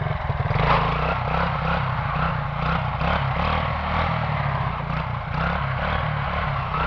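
Quad (ATV) engine running and revving under throttle for a wheelie, its pitch shifting up and down, with a steady rushing noise over it.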